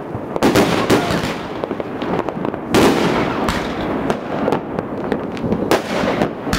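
Fireworks going off: an irregular run of bangs and cracks from bursting shells and rockets over a continuous crackle, with the loudest bangs about half a second in, near three seconds and near six seconds.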